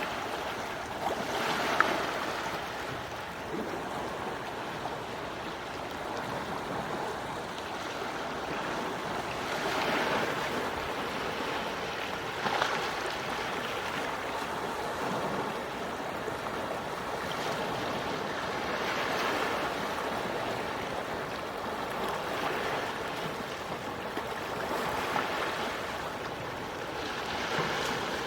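Quiet, small waves washing onto a shore, a steady wash that swells and eases every few seconds. There is a brief sharp splash near the start and another about halfway through.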